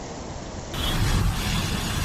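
Steady rain noise, then, about two-thirds of a second in, an abrupt change to a louder low rumble of a motor vehicle.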